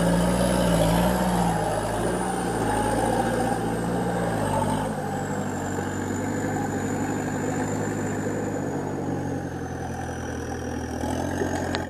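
Off-road 4x4 engine running under light throttle, the revs easing off about five seconds in, with a faint high whine over it.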